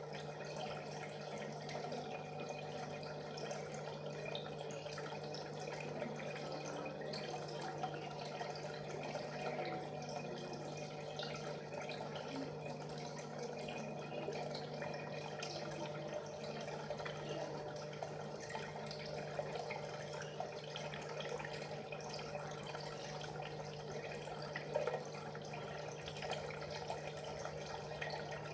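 Aquarium water trickling and bubbling steadily over a constant low motor hum.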